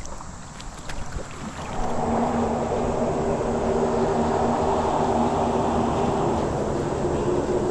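A loud, steady mechanical rumble with a low hum sets in about two seconds in and carries on, after a few faint clicks.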